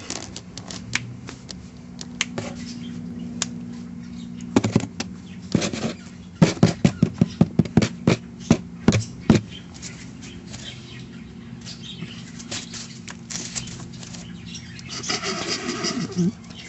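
A rapid run of sharp knocks and scrapes from a hen moving about inside a cardboard box, with scattered lighter taps before and after.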